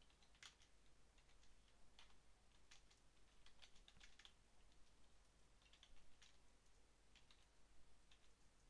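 Faint computer keyboard typing: irregular key clicks, sometimes in short quick runs, with pauses between.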